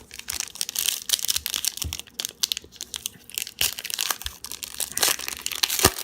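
Foil trading-card pack wrapper being torn open and crinkled by hand: a fast, irregular run of crackles and rustles, with one sharp crack near the end.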